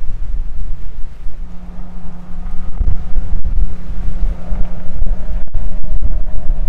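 Strong gusty wind buffeting the microphone in loud low rumbles. A steady low hum runs under it from about a second and a half in.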